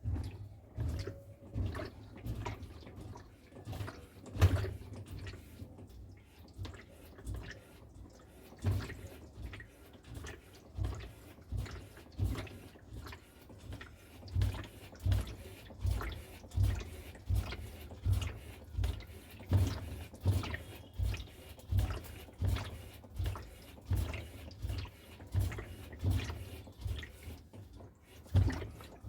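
Samsung top-load washing machine agitating water in its tub during an Eco Tub Clean cycle: a rhythmic sloshing with a low thud about once or twice a second, becoming more regular partway through.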